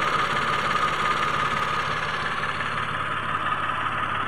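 Mitsubishi Mirage engine idling steadily.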